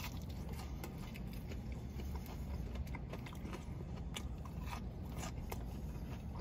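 Close-up chewing of a mouthful of French fries: soft, wet, irregular mouth clicks over a low steady background rumble.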